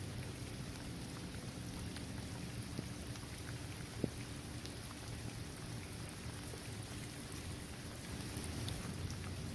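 Steady rain falling on a basketball court, trees and grass, with scattered individual drops ticking and one sharper drop about four seconds in.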